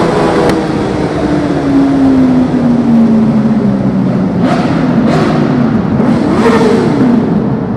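Motorcycle engines on a group superbike ride. One engine's note falls steadily over the first few seconds as it slows, then revs rise and fall again near the end, with a few short sharp noises in between.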